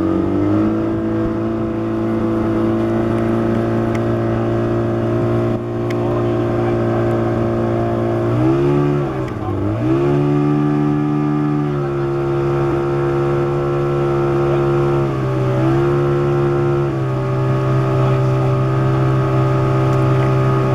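Motorboat engine running steadily under way. Its pitch drops and climbs back about nine seconds in, and dips briefly again around fifteen seconds in.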